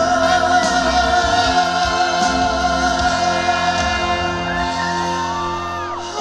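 Trot song with a male voice holding one long note over the backing music, then gliding melodic lines from the accompaniment near the end.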